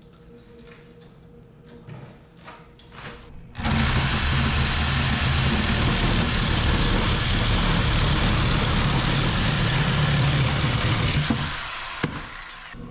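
A high-speed rotary power tool spins up to a steady high whine and runs loudly for about seven seconds, then is switched off and winds down with a falling whine.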